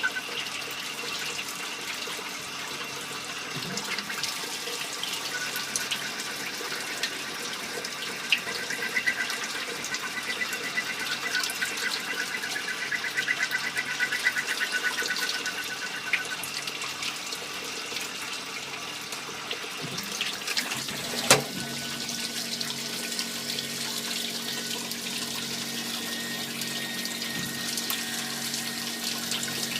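Compound automatic lathe turning small-diameter parts, with a steady hiss and splash of cutting fluid over a pulsing buzz. A single sharp knock comes about two-thirds through, followed by a steady low hum.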